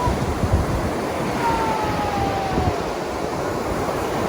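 Ocean surf washing in, with wind buffeting the microphone. About a second and a half in, a thin tone falls slightly in pitch over about a second.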